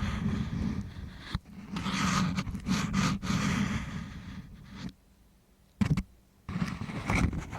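Ear-cleaning ASMR sounds made right at a microphone: scratchy scraping and rubbing with crackles, paused briefly about five seconds in apart from one short scratch.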